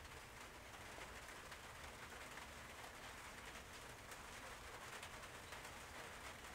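Near silence: faint, steady room hiss.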